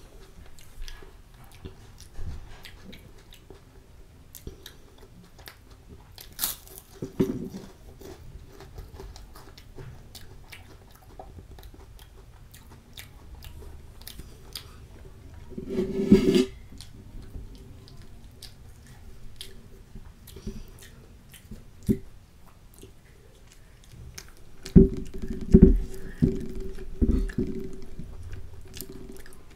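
Close-miked mouth chewing a mouthful of food, with scattered small crunches and wet mouth clicks. A louder muffled sound comes about halfway through, and a few dull thumps near the end.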